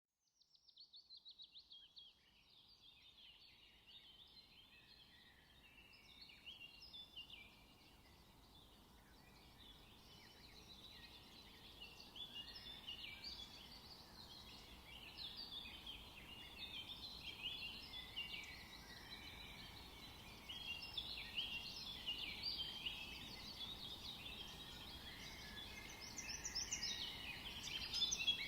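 A chorus of songbirds in a forest, with many overlapping chirps, whistles and trills over a faint background hiss. It fades in from silence at the start, opening with a quick run of falling notes, and grows steadily louder toward the end.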